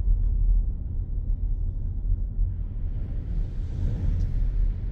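Steady low rumble of a car driving, heard from inside the cabin. A soft hiss builds up about halfway through and fades near the end.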